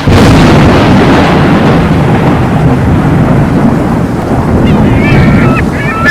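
A sudden thunderclap at the start, then thunder rumbling on under heavy, steady rain. Near the end, birds begin calling in short honking calls over the rain.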